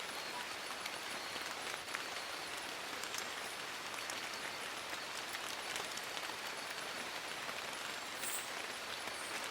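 Steady rain falling on forest leaves: a dense, even hiss of rain with countless small drop ticks, holding level throughout.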